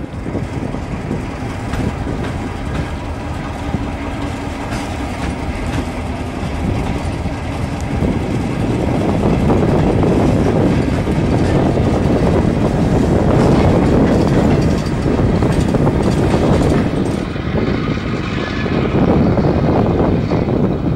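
Freight train rolling: a diesel locomotive hauling covered hoppers, with the wheels clattering and clicking over the rails. It gets louder about eight seconds in.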